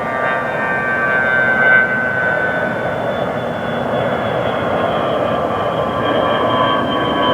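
Military aircraft engines running as the plane passes, a steady rushing noise with a high whine that slowly falls in pitch.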